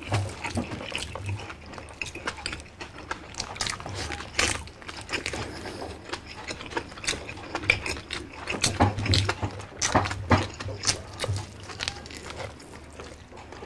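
Close-miked eating: two people chewing boiled beef and pulling it off the bone with their hands, with many irregular sharp mouth clicks and low thuds.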